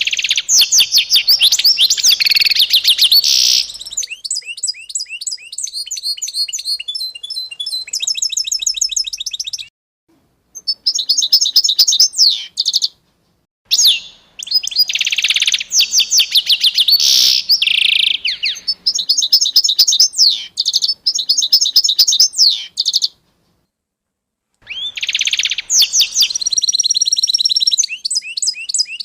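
Songbirds chirping and singing in high, fast trills and quickly repeated notes, in several bursts broken by a few short gaps of total silence.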